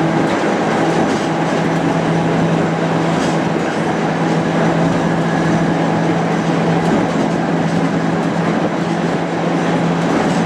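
Heritage electric tram running along the track: continuous wheel-on-rail running noise with a steady low hum.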